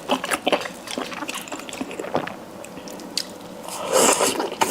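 Close-miked wet chewing and mouth sounds of someone eating: a run of short wet smacks and clicks, then a louder, noisier stretch near the end.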